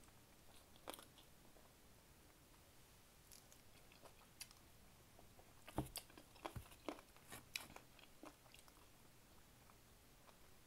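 Faint chewing and biting on a bone-in chicken wing, with a cluster of short, sharp crunches and clicks about halfway through.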